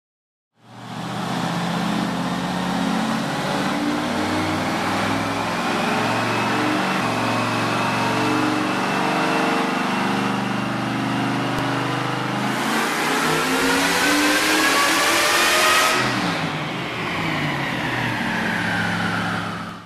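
Supercharged 598 cubic-inch big-block Chevy V8 running on a chassis dyno. It runs steady and lumpy at low revs for the first twelve seconds or so, then revs climb for about four seconds. The revs drop sharply and the pitch falls away as it winds down.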